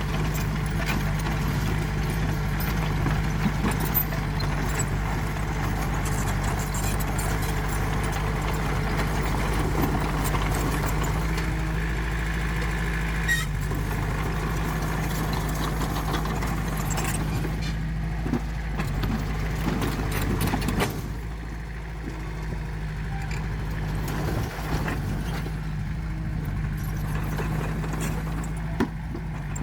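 Diesel engine of heavy earthmoving machinery running steadily, with scattered clanks and knocks over it; the engine sound drops a little about two-thirds of the way through.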